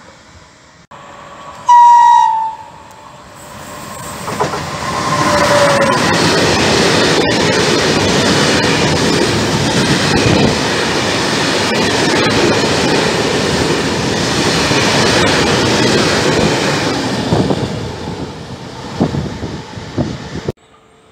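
Electric locomotive's horn sounding one short, loud blast, with a fainter falling horn note a few seconds later as it passes. Then a long loaded freight train running through at speed, the wagon wheels clattering over the rail joints for about fifteen seconds before the sound cuts off abruptly near the end.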